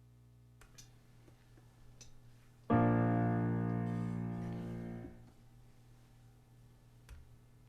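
A single piano chord struck about two and a half seconds in, fading for a couple of seconds before it is cut off. A few faint clicks come before and after it.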